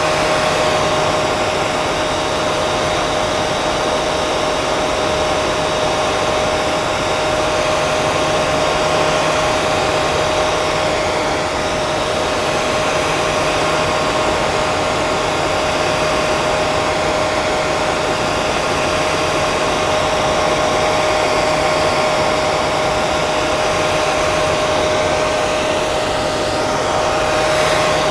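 Handheld hair dryer running steadily: a constant rush of blown air with a steady mid-pitched motor whine.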